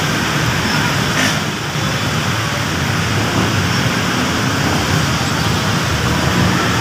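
Steady hiss of heavy rain mixed with road traffic.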